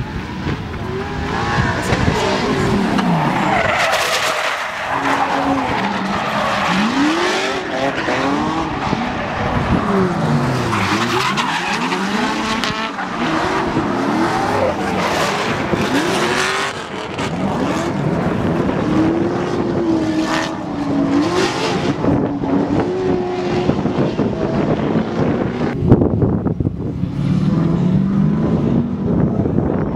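LS V8-swapped BMW E46 drift car under hard throttle, the engine note climbing and falling again and again as it revs, with tires squealing and skidding throughout. One sharp bang about 26 seconds in.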